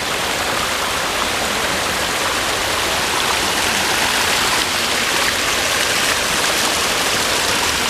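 Steady, loud rush of water in monsoon spate, a waterfall or overflowing stream in full flow.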